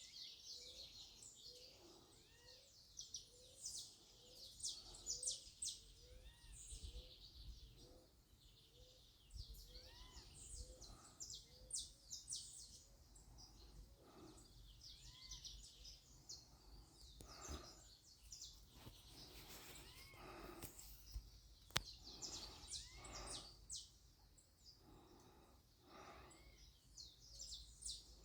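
Faint bird chirping: many short, high-pitched chirps and twitters, with a few lower, rounder notes between them.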